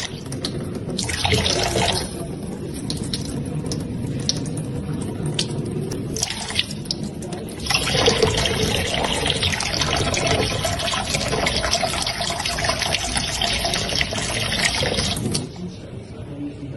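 Running water, like a tap running into a sink; it gets much louder about eight seconds in and drops back near the end.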